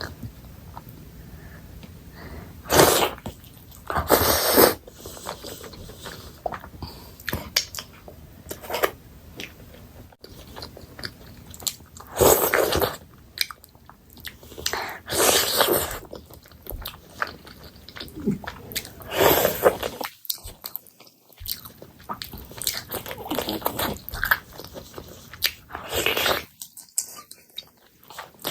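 Close-miked chewing and biting of chicken curry, wet mouth sounds with several louder bursts at irregular intervals.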